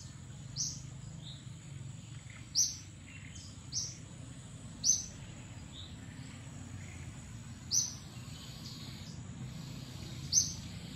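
Wild birds giving short, sharp, high chirps that drop slightly in pitch, one every one to two seconds, over a steady high insect whine and a low background rumble.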